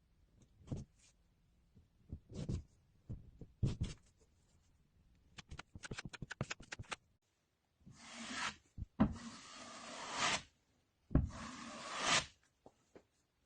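A hand tool working over a plasterboard wall repair: scattered knocks and taps, a quick run of clicks, then three long rubbing strokes of about a second each.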